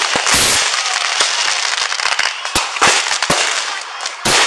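Aerial fireworks going off overhead: a loud blast at the start, then a string of sharp pops and crackling, with another loud bang near the end.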